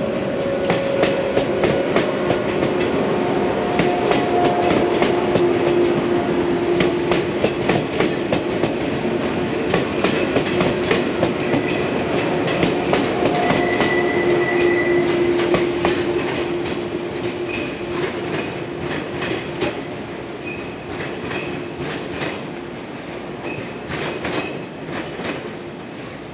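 Yellow electric multiple unit (sets D04 and D25) running past on the rails, its wheels clicking rhythmically over the rail joints. It fades steadily over the last ten seconds as it draws away.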